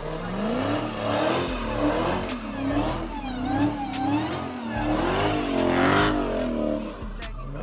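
Car engine revved over and over, its pitch rising and falling about twice a second.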